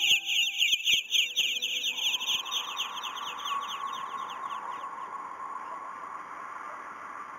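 Small birds chirping in a fast, even run of high chirps, several a second, that fades away over the first five seconds. A steady hiss rises in about two seconds in and carries on.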